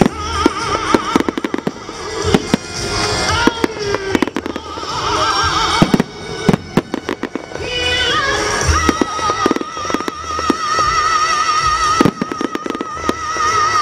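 Fireworks bursting and crackling, many sharp bangs in quick succession, over music with a singing voice that holds one long wavering note through the second half.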